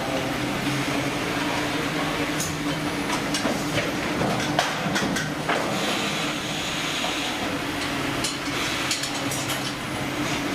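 Steady hum of shipboard machinery with a low drone, broken by scattered short knocks and clatter.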